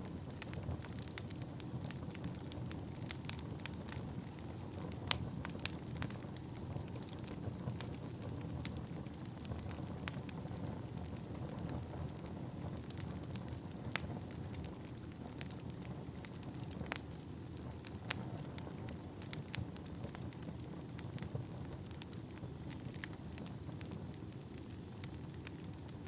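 Wood fire burning with a steady low rumble and frequent irregular crackles and sharp pops. A faint, thin high whistle slides down slightly and holds near the end.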